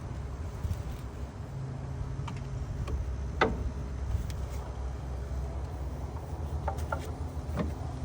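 A few short clicks and taps as spark plug wires are handled and fitted, the sharpest about three and a half seconds in and a small cluster near the end, over a steady low rumble.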